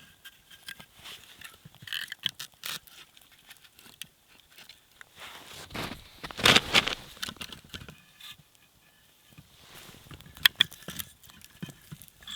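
Irregular crunches and scrapes in snow, with a louder scuffing burst about six and a half seconds in and a few sharp ticks near ten and a half seconds.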